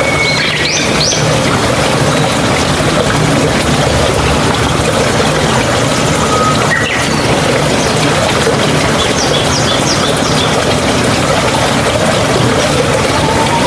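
Mountain stream water flowing and splashing steadily. Birds chirp briefly about half a second in, once faintly around six seconds, and in a quick run of short chirps about two-thirds of the way through.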